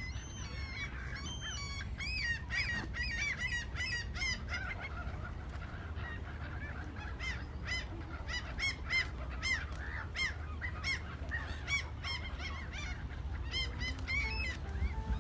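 Birds calling in quick runs of short, arched calls, with a brief lull in the middle, over a low steady rumble.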